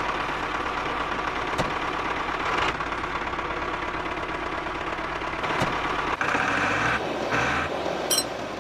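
Small engine running steadily, its sound changing about six seconds in.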